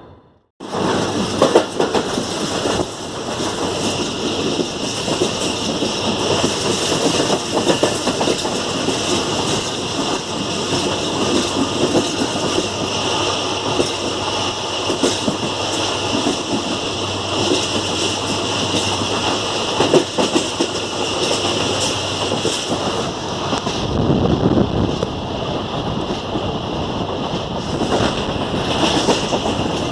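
Passenger train running at speed, a steady rumble and rush of wind with wheels clattering over rail joints. It starts abruptly about half a second in.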